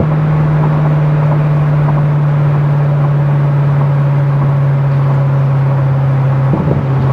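Corvette C6 Z06's 7.0-litre LS7 V8 running at a steady highway cruise, a strong steady low drone. About six and a half seconds in the note breaks briefly and settles slightly lower.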